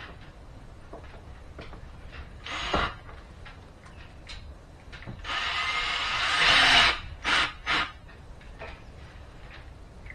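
Power drill driving a screw: a short burst, then a longer run of about two seconds that grows louder, then two quick bursts to seat the screw.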